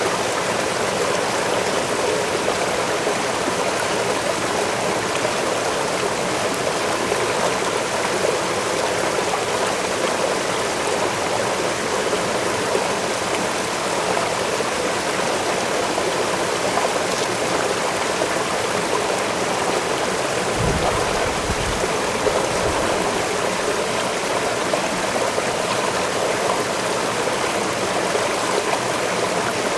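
Waterfall rushing steadily, an even, constant wash of falling water. About two-thirds of the way through there is a brief low rumble.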